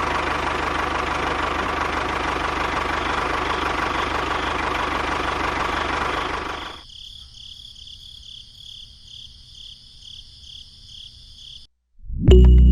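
A small motor running with a steady, noisy whirr, which drops abruptly about seven seconds in to a quieter running sound with a fast, regular ticking.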